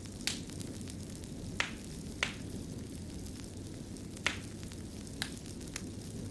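Wood fire in a fireplace crackling: a steady low rumble of burning, with about six sharp pops scattered through it.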